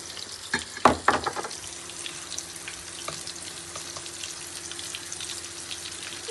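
Masala frying and sizzling in a pan while it is stirred, with a few knocks of the spoon against the pan about a second in.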